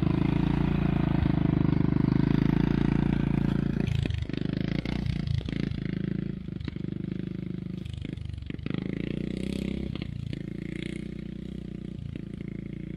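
ATV engine running, loud and steady for about four seconds, then dropping to a lower, uneven run with scattered knocks and clatter.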